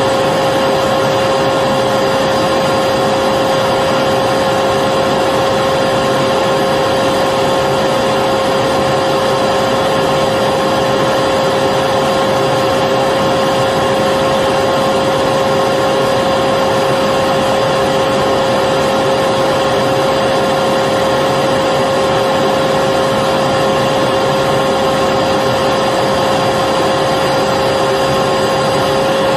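Vacuum cleaner motor running steadily, a loud, unchanging whirring hum with a strong steady whine.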